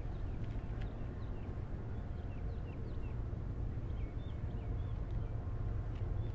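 Open-air ambience: a steady low rumble with a faint hum, and a bird chirping a string of short, quick notes through the middle.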